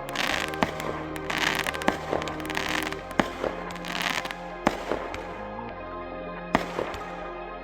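Fireworks going off: several bursts of crackling in the first half, then a few sharp single bangs, with music playing underneath.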